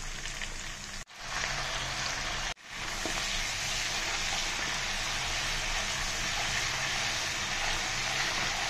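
Sliced onions frying in hot oil in a pan: a steady sizzle. It drops out briefly twice in the first few seconds.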